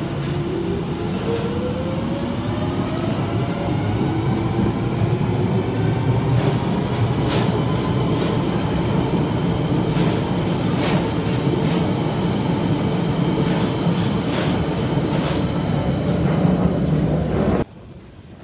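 London Underground train pulling out and gathering speed: its motor whine rises in pitch over the first several seconds over a steady rumble, with repeated clicks of wheels over rail joints. The sound cuts off suddenly near the end.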